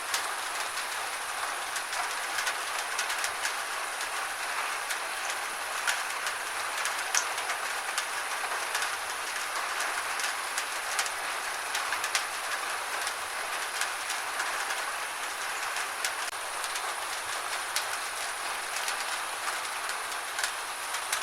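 Gentle rain falling steadily: an even hiss with many scattered sharp taps of single drops.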